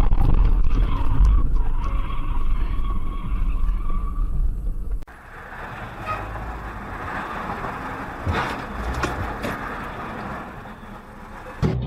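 Car driving noise as heard by a dash cam: a steady low rumble of engine and road with a faint held whine. About five seconds in it cuts to a quieter stretch of road noise with a few short knocks, and it rises again near the end.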